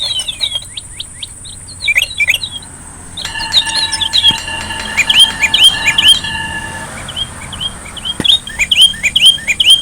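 Small birds chirping in quick runs of sharp falling chirps. A steady whistled tone is held for about three and a half seconds in the middle.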